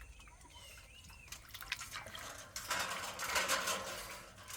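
Salt water being poured and splashed over a nail-puncture wound on a foot to rinse it, starting about two and a half seconds in and getting louder near the end.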